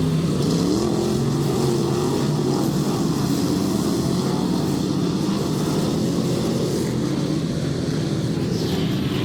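Dirt track race cars' engines running on the oval, several engines at once, their pitch rising and falling.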